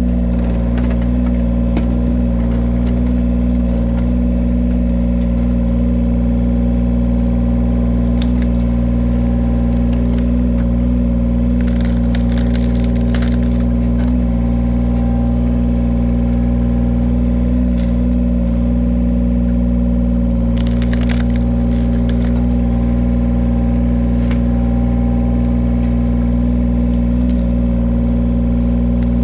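Engine of a firewood-cutting machine running steadily at a constant speed. Brief bursts of crackling noise come twice, about 12 and 21 seconds in.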